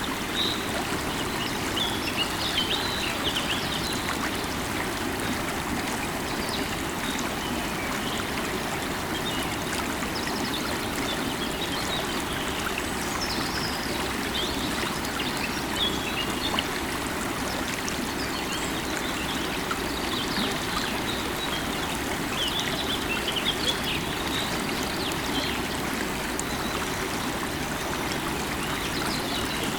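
Running river water, a steady rush, with small birds chirping now and then above it.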